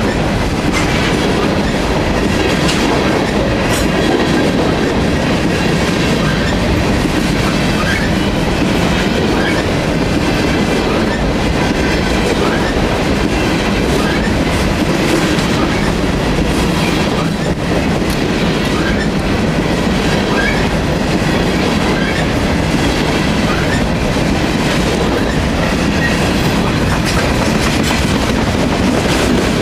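Freight train of covered hopper cars rolling past close by: a loud, steady rumble and clatter of steel wheels on the rails, with brief faint wheel squeaks about once a second through the middle.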